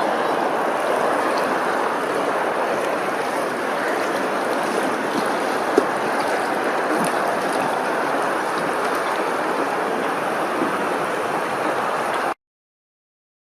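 Steady rush of flowing water, like a stream or cascade, with one brief click a little before halfway; it cuts off abruptly near the end.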